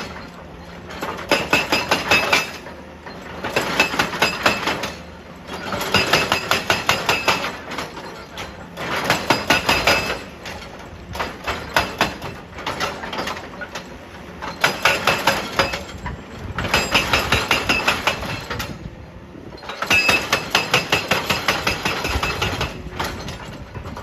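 Excavator-mounted hydraulic breaker hammer pounding rock in repeated bursts of rapid metallic blows, each burst lasting a second or two with short pauses between.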